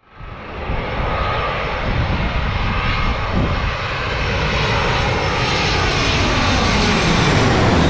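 Boeing 737 airliner's jet engines passing close by as it arrives on the runway: loud engine noise with whining tones that slowly fall in pitch.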